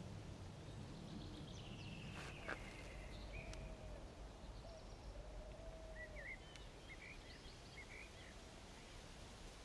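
Faint outdoor birdsong: scattered short chirps and trills over a low steady hiss, with a single light click about two and a half seconds in.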